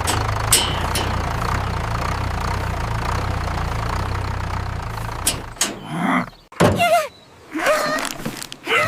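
A vehicle engine sound effect running steadily with a low rumble, cutting out about five and a half seconds in. Several short, wavering pitched sounds follow.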